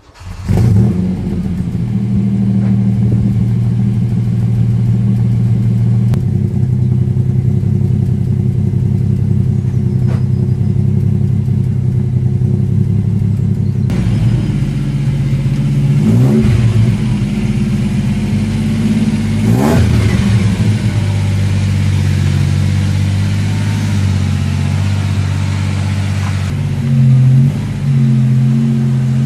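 Ford Capri 2.8 Injection's V6 engine starting up about half a second in, then idling steadily, with a few quick blips of the throttle later on.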